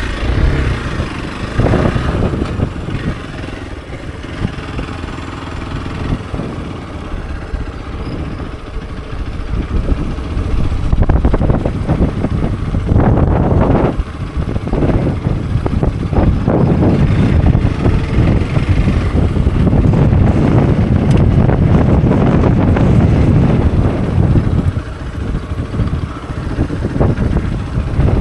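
Hero XPulse 200 4V's single-cylinder four-valve engine running as the motorcycle is ridden. It grows louder from about ten seconds in and eases near the end.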